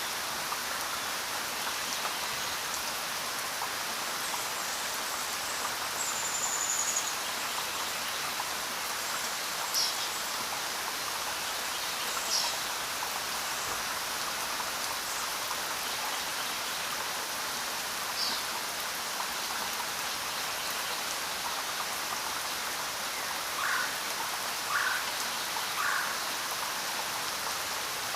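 Steady rain falling, an even hiss of drops on the ground and leaves. A few short bird chirps come through it now and then, three in quick succession near the end.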